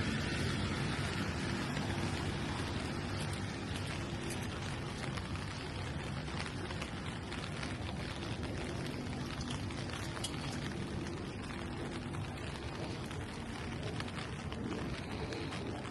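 Steady rain falling, a dense patter of drops on hard surfaces, with a faint low hum beneath it.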